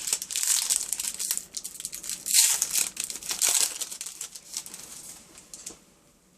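Foil trading-card pack being torn open and crinkled by hand, a dense crackling that dies away about five seconds in.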